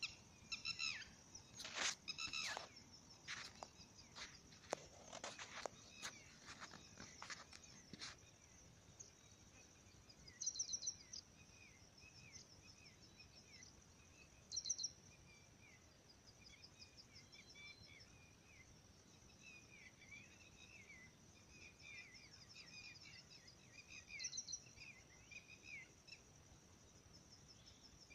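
Faint chirps and trills of small songbirds, repeating on and off, with a run of sharp clicks during the first eight seconds.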